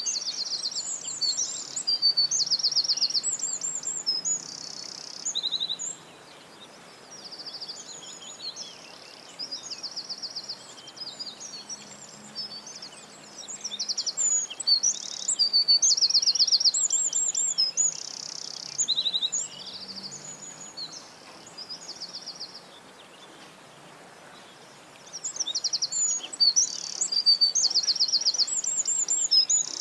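Songbird singing long, varied, high-pitched phrases of fast trills and chirps, pausing briefly near the end before starting again.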